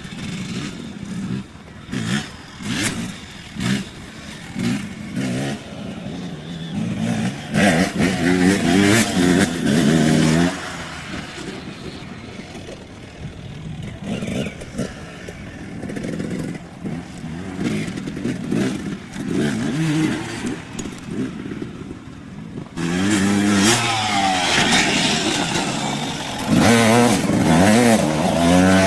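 Dirt bike engines revving as the bikes ride the track, the pitch rising and falling with the throttle, loudest as a bike comes close about a third of the way in and again over the last few seconds.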